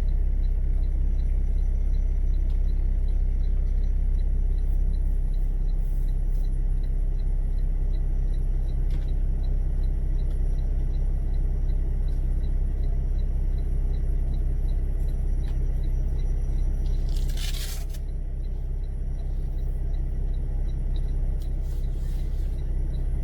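Semi-truck diesel engine idling steadily while warming up, a low even rumble, with a faint regular ticking. About three-quarters of the way through comes one short hiss, after which the sound is a little quieter.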